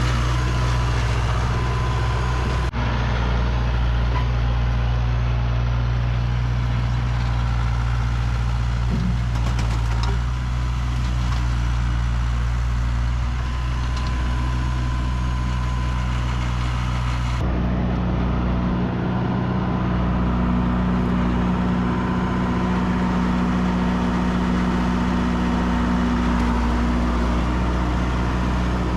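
Tractor engine running steadily, its tone changing abruptly about 3 seconds in and again about 17 seconds in.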